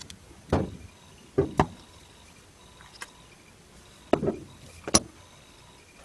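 A handful of separate knocks and clunks of hard objects being handled, two close together about a second and a half in, the sharpest a click near the end.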